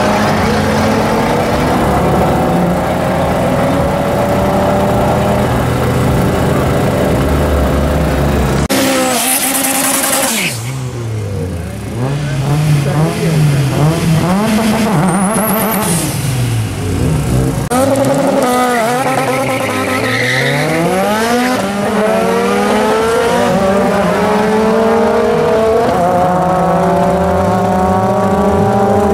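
Street-car engines at a drag race: cars accelerating hard down the strip, engine pitch climbing steadily. About nine seconds in comes a brief loud hiss, then a car revs at the start line with its pitch swinging up and down, and launches, its engine climbing through the gears with clear shifts.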